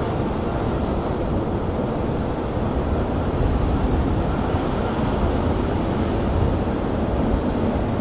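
Railyard ambience: a steady low rumble with no breaks, and a faint thin steady whine high above it.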